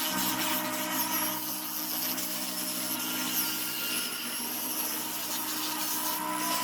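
Power sanding tool running steadily against zelkova root wood, its motor hum under a continuous abrasive rasp, during rough sanding of the piece.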